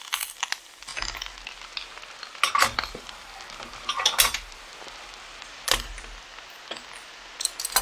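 Metal utensils clinking and scraping against a frying pan a handful of times, with sausages sizzling faintly underneath.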